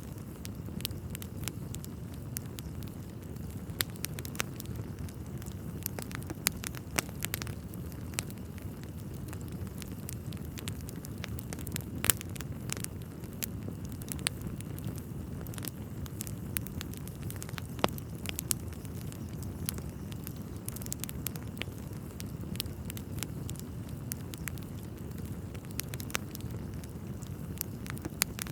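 Wood fire burning in a fireplace: irregular sharp crackles and a few louder pops of burning logs over a steady low rumble.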